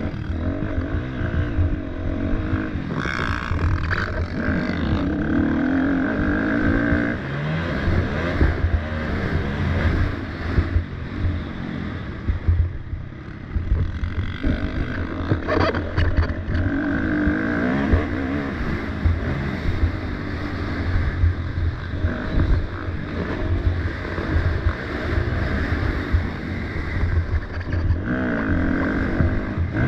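Motocross dirt bike engine running hard around the track, revving up and easing off again and again.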